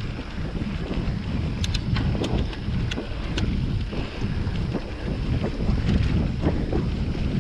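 Wind buffeting the microphone of a mountain bike ride, with steady rumble from the tyres rolling over the trail and scattered sharp clicks and rattles from the bike.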